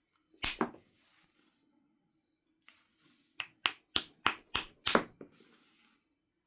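Knapping strikes on a Knife River flint biface: one sharp, ringing hit about half a second in, then after a pause a quick run of six hits, about three a second.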